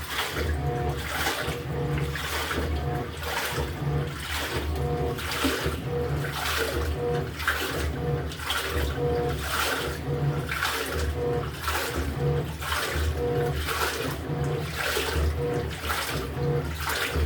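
LG top-loading washing machine agitating a full tub of water: the pulsator swishes the load back and forth in a steady rhythm of a little under two strokes a second, each stroke with a pulse of motor hum and a splash of water.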